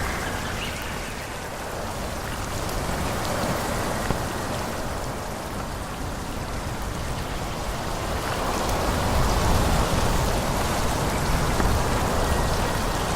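Wind blowing through forest trees: a steady rushing of leaves and branches with a deep rumble underneath, swelling in a gust about nine seconds in.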